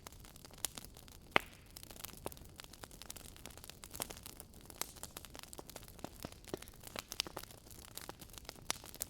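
Firewood burning in a fireplace, crackling with many small irregular pops over a faint hiss, one louder pop about a second and a half in.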